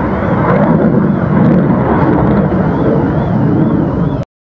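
Loud, steady rumble of an aircraft's engines passing overhead, cut off suddenly near the end.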